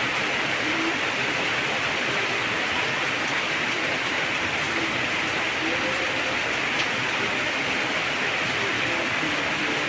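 Heavy rain falling steadily, a dense, even hiss without let-up.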